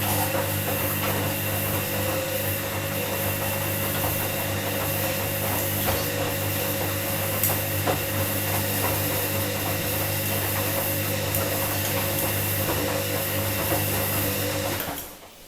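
Washing machine running with a steady motor hum and scattered light knocks, cutting off abruptly shortly before the end.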